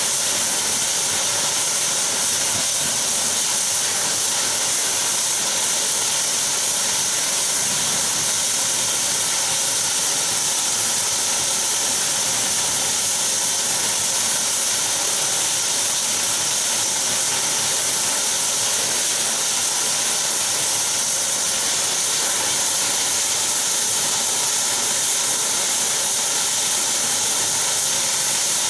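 Saab 340B's General Electric CT7 turboprop engines running steadily, a constant high turbine whine over propeller and engine noise.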